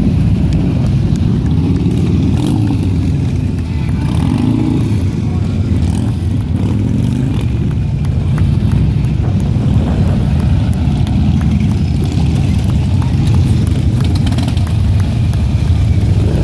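Harley-Davidson motorcycle engines running with a steady low rumble.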